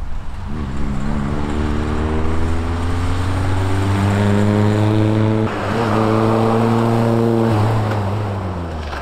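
Triumph Spitfire's four-cylinder engine accelerating hard, rising in pitch, with a brief break for a gear change about five and a half seconds in, then climbing again before it eases off near the end.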